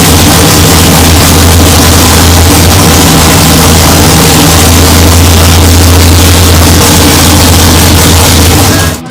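Demolition-derby Ford Thunderbird's engine running loud and steady, driving the freshly swapped driveline with the tires off so the crew can check it for vibration. The sound stops abruptly just before the end.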